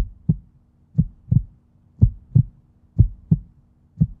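Heartbeat sound effect: low double thumps in a lub-dub pattern, about one beat a second, four beats in all.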